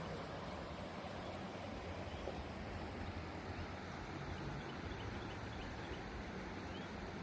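Quiet outdoor ambience: a steady background hiss with a few faint, short bird chirps.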